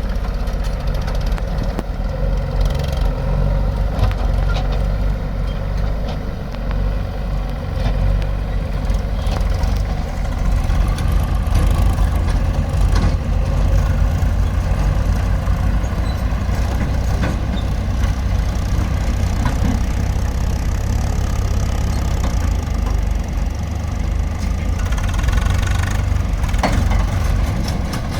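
Heavy diesel engine running steadily at a low, deep pitch, with scattered short clicks and knocks over it.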